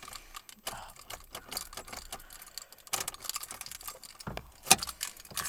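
Car keys jangling on a key ring, with scattered light clicks and one sharper click a little before the end.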